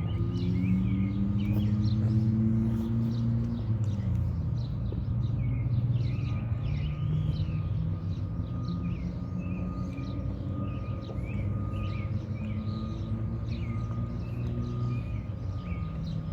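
Small birds chirping over and over, above the low hum of a nearby engine whose pitch slowly rises, falls away about four seconds in, and comes back steady a couple of seconds later.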